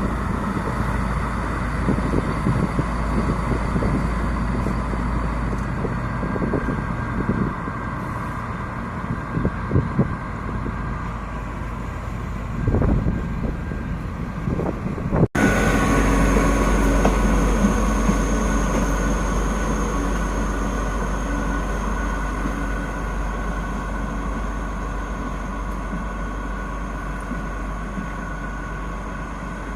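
D11H diesel locomotives running. The first half has a drone with many irregular knocks and rattles. About halfway through it cuts abruptly to a steady engine drone with a high whine, slowly fading.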